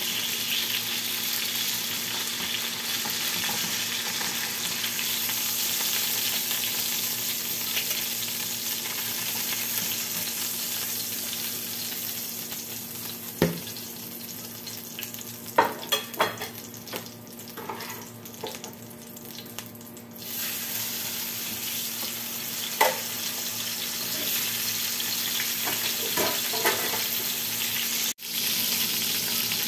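Salmon fillets sizzling in hot oil in a frying pan, a steady hiss, with a few clicks and knocks of a metal spatula and plate against the pan. The sizzle dies down for a few seconds about halfway through, then comes back at full strength.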